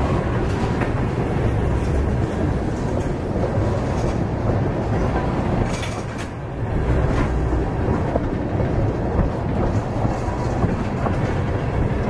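Freight train rolling by: a steady, dense rumble of railcars with scattered clicks and clacks of wheels over the track, and a brief high metallic streak about six seconds in.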